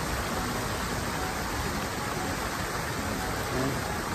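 Steady rush of water pouring over a small weir.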